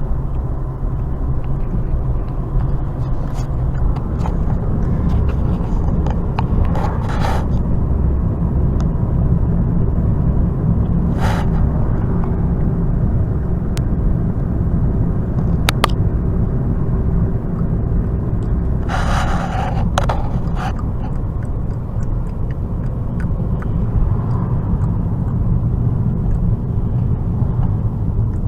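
A car driving along the road, with a steady low rumble of engine and road noise. A few light clicks and knocks come through, and a brief hiss comes about two-thirds of the way in.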